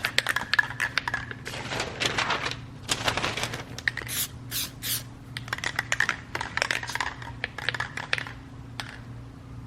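Aerosol can of Plasti Dip being shaken hard, its mixing ball rattling in quick clattering runs, with a few short hisses of spray about four to five seconds in.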